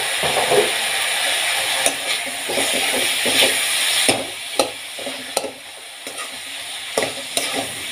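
Onion-tomato spice masala frying in oil in a steel wok, sizzling, while a perforated steel spatula stirs it and scrapes and taps against the pan. The sizzle drops about four seconds in, leaving mostly scraping and taps.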